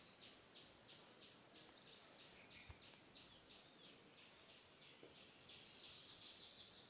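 Faint birdsong in the background: short high chirps repeated about three times a second, running into a steadier trill near the end. A single sharp click comes about two and a half seconds in.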